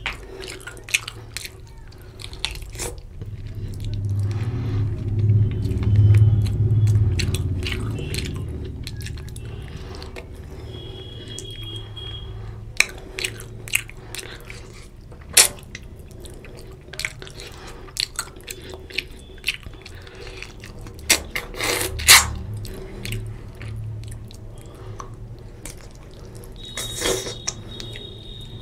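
Close-miked chewing of rice and mutton curry: wet mouth smacks and clicks scattered throughout, over a low chewing rumble that grows louder for a few seconds soon after the start.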